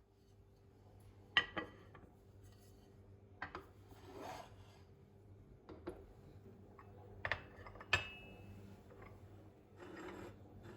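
Dishes and utensils being handled: several sharp clinks spaced a second or two apart, one ringing briefly like glass or china, with soft rubbing and sliding sounds between them over a steady low hum.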